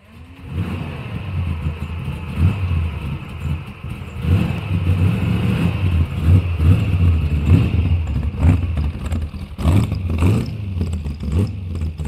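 Car engine running and revving, its pitch rising and falling.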